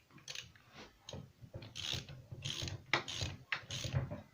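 Socket ratchet clicking in a series of short strokes as a bearing puller's screw is wound in to draw a bearing off a moped engine's crankshaft.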